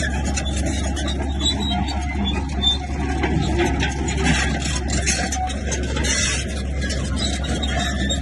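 Komatsu bulldozer's diesel engine running steadily under load, with clanking and scraping from the tracks, blade and stones.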